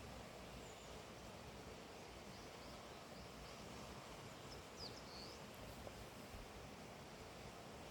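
Faint outdoor morning ambience: a steady hiss with a few faint, high-pitched bird chirps around the middle.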